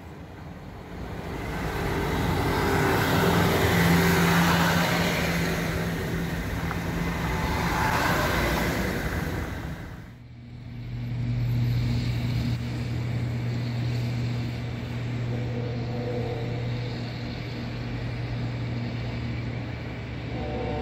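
Snow removal vehicles running. For the first ten seconds a vehicle engine swells and fades with road noise. After an abrupt change, a steady engine drone continues.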